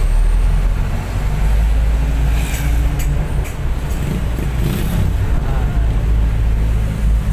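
A bus's engine and road noise heard on board while it drives: a steady, loud low rumble, with a few short rattles and clicks about halfway through.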